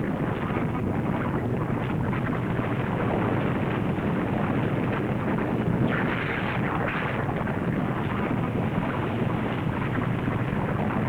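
Volcanic eruption sound effect from an old film soundtrack: a dense, steady rumble with no let-up, with brief surges of hiss about six and seven seconds in.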